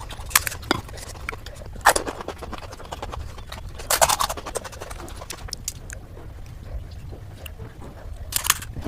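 Golgappa (pani puri) eating sounds played back at six times speed: a rapid, irregular run of crisp crunches and clicks from the puri shells, with a few louder, longer crunches about two, four and eight and a half seconds in.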